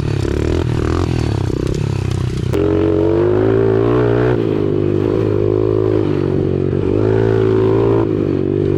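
Small four-stroke pit bike engines running. About two and a half seconds in, a louder engine joins, its pitch wavering as the throttle is worked.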